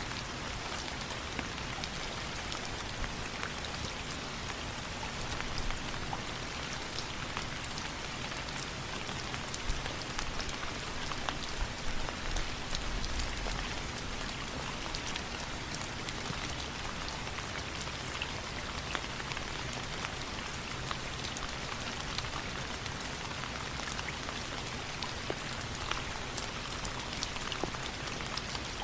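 Steady rain: a constant hiss with many small, sharp drop taps throughout, and a few louder taps a little before halfway.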